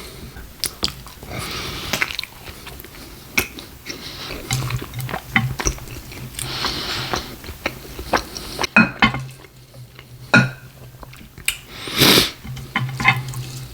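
Close-miked chewing of a beef burrito: wet, sticky mouth sounds with many sharp lip and tongue clicks at irregular intervals. One louder noisy burst comes near the end.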